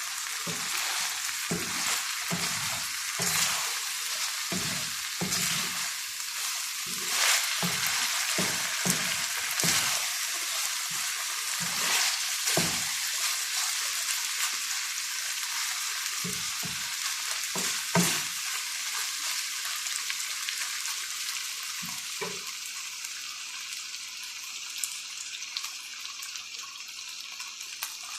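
Food sizzling in hot oil in a cooking pan, stirred with a utensil that knocks and scrapes against the pan at an irregular pace. The stirring is busy for the first two-thirds and then thins out, leaving mostly the steady sizzle.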